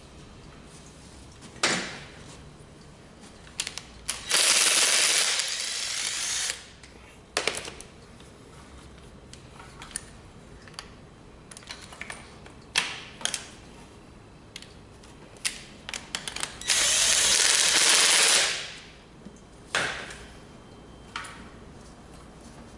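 Workshop tool work on an engine: scattered metal clicks and knocks, with two bursts of about two seconds each from an air-driven tool, about four seconds in and again near seventeen seconds.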